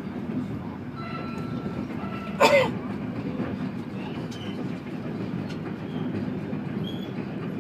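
Steady low rumble of a passenger train running along the track, heard from inside the carriage, with one brief loud sharp noise about two and a half seconds in.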